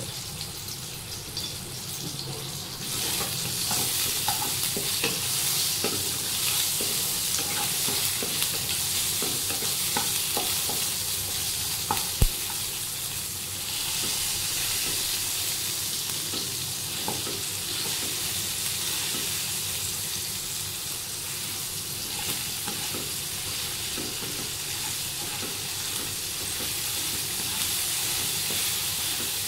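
Tomato pieces sizzling in hot oil in a nonstick kadai while a wooden spatula stirs and presses them down, scraping the pan; the tomatoes are being mashed as they fry with salt. The sizzle grows louder about three seconds in, and there is one sharp knock about twelve seconds in.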